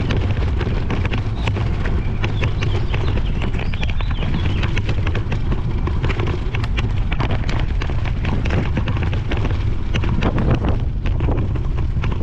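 Wind buffeting the microphone with a steady low rumble, over irregular crunching and crackling of bike tyres rolling on a cinder track.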